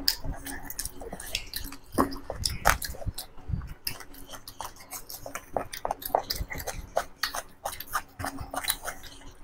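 Two people chewing and biting food close to clip-on microphones: many irregular short wet clicks and crunches, with fingers working rice and curry on metal plates.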